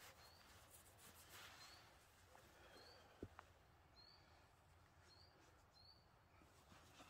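Very quiet woodland air with a small songbird repeating a short, high chirp about once a second. Faint rustling of cloth as a sock is pulled on, with one soft tap about three seconds in.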